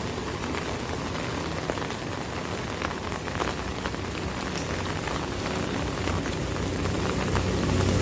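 Steady rain falling on an umbrella, with many separate drops ticking on the canopy over an even hiss.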